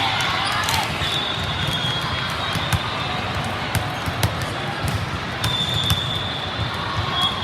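Volleyball hall ambience: scattered sharp thuds of balls bouncing and being struck, over a steady hum of crowd voices in a large hall.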